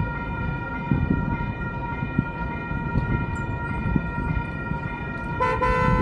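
Railroad crossing warning bell ringing steadily over low traffic rumble. Near the end a horn sounds for about a second.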